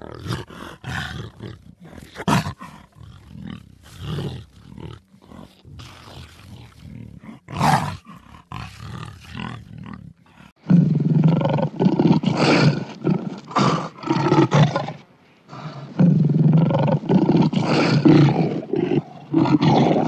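Eurasian lynx growling and snarling: short separate calls through the first half, then two long runs of deep growling starting about 11 and 16 seconds in.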